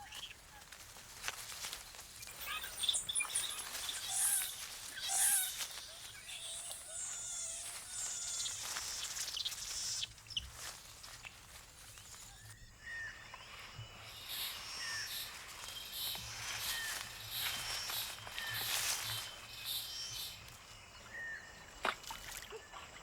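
Rainforest ambience full of repeated short chirping animal calls and high squeals, with scattered sharp cracks and rustles.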